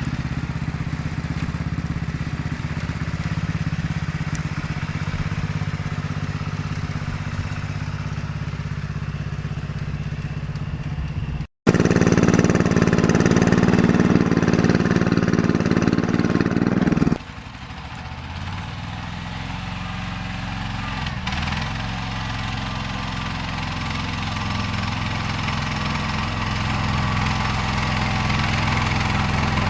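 Small garden tractor engine running steadily as the tractor is driven. After a brief break about twelve seconds in, it runs louder for about five seconds, then drops back to a quieter, steady running.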